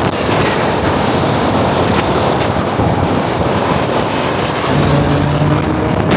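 Loud, steady rushing of wind on the microphone over vehicle noise, with a brief low hum near the end.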